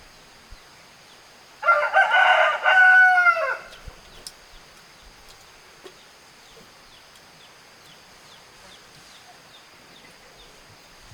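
A rooster crowing once, a single drawn-out call of about two seconds that starts under two seconds in and drops in pitch at the end. Faint chirps follow later.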